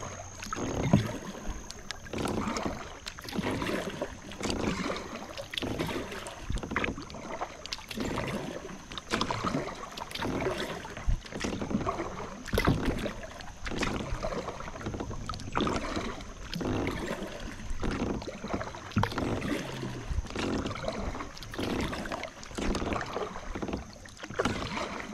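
Kayak paddling: the paddle blades dip and splash in a steady rhythm of strokes, with water dripping between them.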